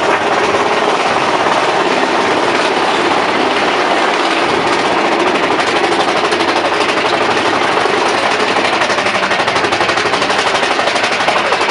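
Mine-train roller coaster cars running along the track, a loud, steady, rapid rattling clatter.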